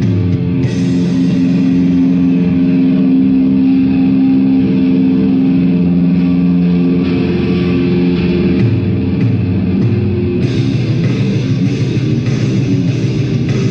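Live heavy band playing loud distorted electric guitar and bass chords, held and ringing at the start of a song. About ten seconds in the drums come in with a fast, steady beat and the full band plays together.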